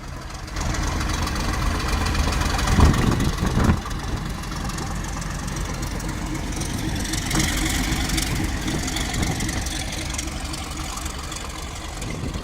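Diesel railway locomotive engine running, getting louder about half a second in, with two heavy low thumps about three seconds in and a rise of high hiss near the middle.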